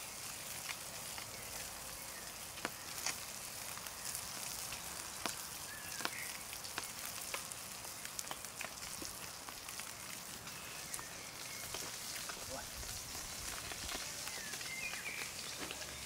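Roach fish frying over a campfire: a steady sizzle with the wood fire crackling in sharp pops throughout.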